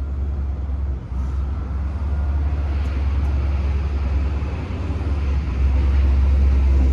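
Truck engine running with a steady low drone, growing louder about two seconds in and again near the end.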